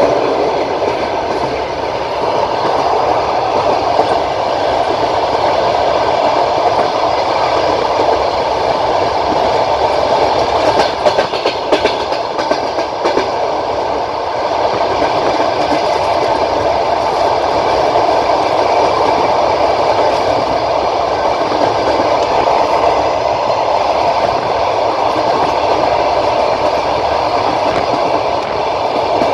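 Passenger train wheels running on the rails, heard from aboard the train: a steady rolling rumble with a short run of sharp clacks near the middle.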